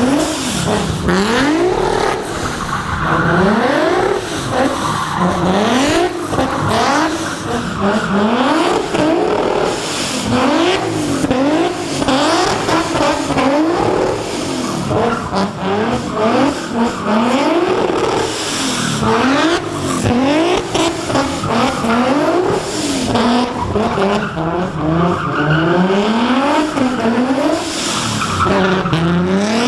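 Car engine revving up and dropping back over and over, about once every one to two seconds, with tyres squealing, as in a burnout or doughnuts.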